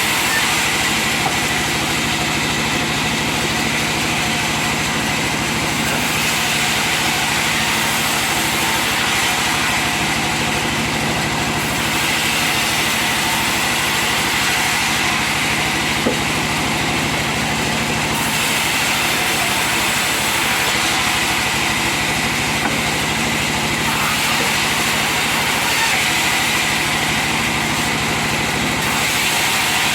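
Sawmill saw machine running steadily as it cuts through timber, a continuous hissing, whirring noise. Its character shifts slightly every few seconds.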